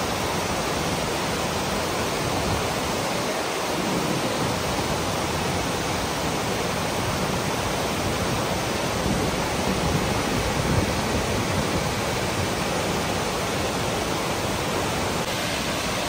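Tortum Waterfall's falling water: a steady, even rush.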